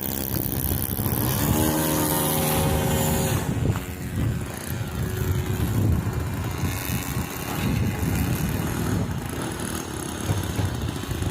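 Electric motors and propellers of a radio-controlled B-17 model plane in flight, with a pitched whine that drops slightly as it passes, about two seconds in. Wind rumbles on the microphone.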